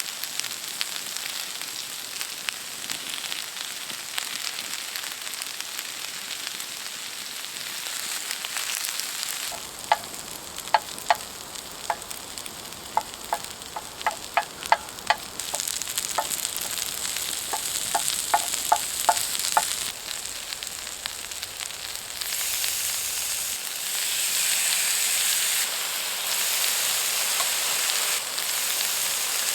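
Food sizzling on a hot pan or griddle, a steady hiss that grows louder partway through. A run of short, sharp pops comes in the middle.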